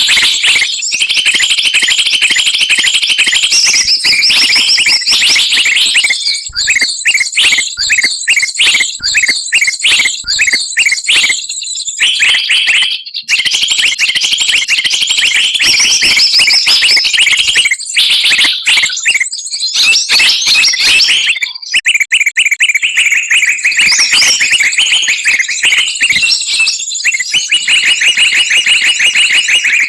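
Dense, noisy chorus of small songbirds calling and chattering at once, with fast trills and rapidly repeated high chirps layered over each other. It is a bird-trapping lure recording.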